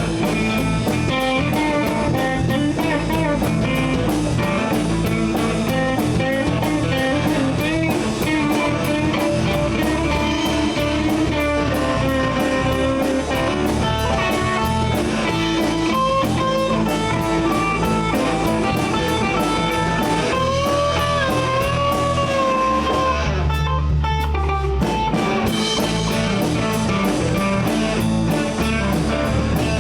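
Live blues band playing an instrumental break: an electric guitar takes a solo with bent, sliding notes over bass and a drum kit. The drums drop out briefly about three-quarters of the way through, then come back in.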